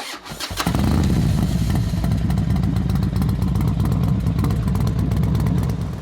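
Motorcycle engine running, building up over the first half-second and then holding steady.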